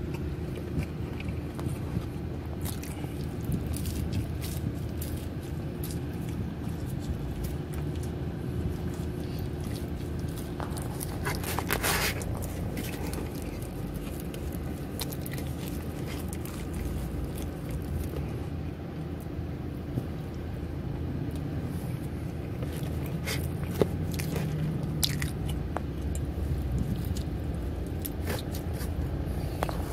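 Close-up mouth sounds of someone biting and chewing pepperoni pizza, with sharper bites about twelve seconds in and again near twenty-four seconds. A steady low hum of the car cabin runs underneath.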